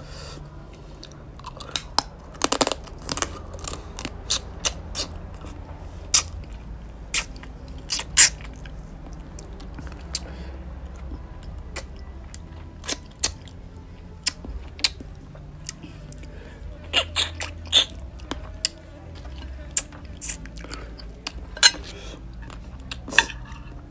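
Close-up chewing of raw crab, its shell cracking in many sharp crunches. They come in clusters, with a quieter stretch of softer chewing in the middle.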